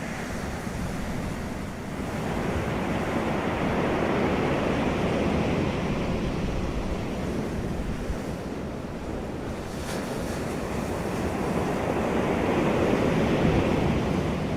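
Wind rushing across the microphone, swelling and easing twice: once around four seconds in and again near the end.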